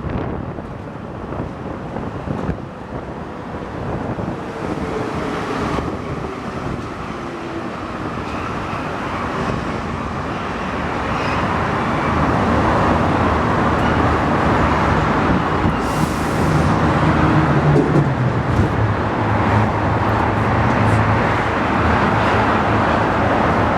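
Santiago Metro NS-88 rubber-tyred train running between stations, a steady rumble that grows louder over the stretch, with faint tones from the train's equipment.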